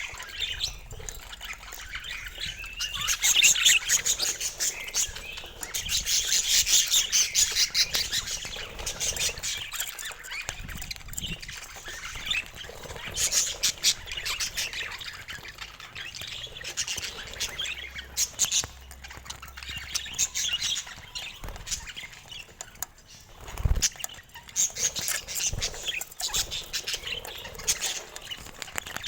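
Budgerigars chattering and warbling, a rapid run of chirps and squawks in overlapping bouts, as from a flock. A brief low thump comes near the end.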